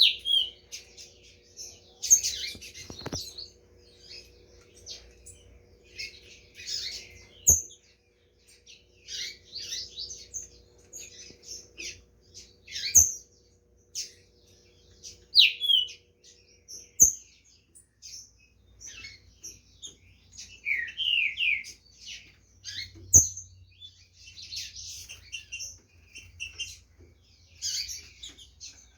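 Two green-winged saltators (trinca-ferro) singing against each other in a song duel, a continuous run of quick chirps and whistled phrases. A few sharp knocks break in now and then.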